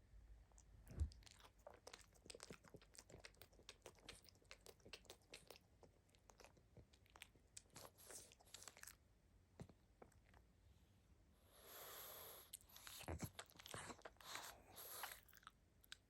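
Sleeping pug's quiet mouth noises: a run of small wet clicks and smacks, like licking or chewing. About twelve seconds in comes a breathy rush, with more clustered smacks after it.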